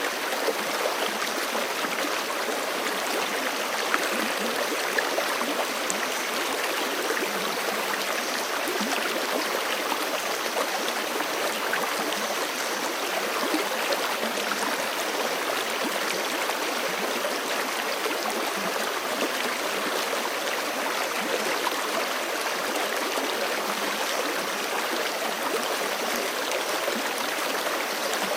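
Forest creek flowing steadily over rocks, a continuous rushing babble with fine splashing.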